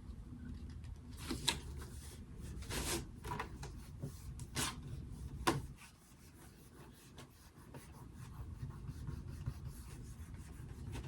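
Faint, irregular rubbing and scraping of hands handling craft materials on a work surface, with a few sharper strokes. It drops out for about two seconds a little past the middle.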